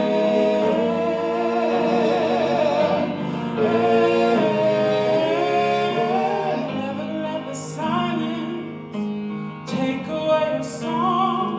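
A singer holding the last note of a chorus with vibrato over piano accompaniment, then the piano playing on alone in a short interlude.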